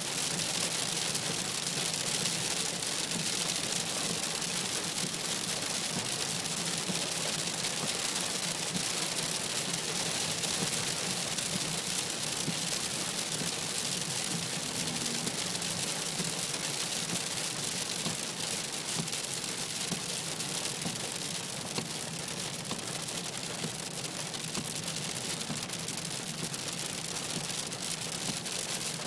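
Heavy rain pattering steadily on a moving car's windscreen and roof, heard from inside the cabin, over a low steady hum of engine and road noise.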